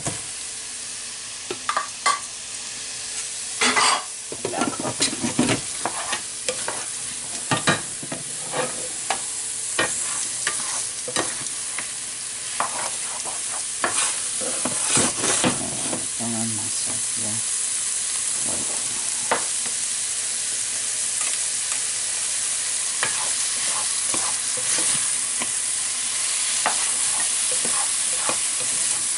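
Sliced shiitake mushrooms sizzling in butter in a hot frying pan, with a utensil clicking and scraping against the pan as they are stirred. The knocks come thick over the first half and thin out, leaving a steady sizzle.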